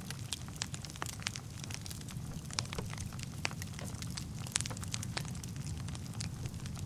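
Wood fire burning in a fireplace: a steady low rumble of flames with irregular sharp crackles and pops from the burning logs, the loudest pop about four and a half seconds in.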